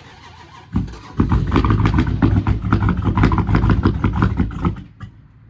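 Supercharged V8 of a Jeep Grand Cherokee SRT being cranked, turning over with a rapid, rough pulsing for about four seconds without settling into a run, then cutting off near the end. The engine will not start, which the owners put down to the supercharger fitted to it.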